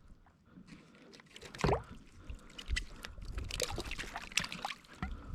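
Water splashing and trickling against a kayak, with scattered small knocks and clicks; one sharper splash or knock comes about a second and a half in.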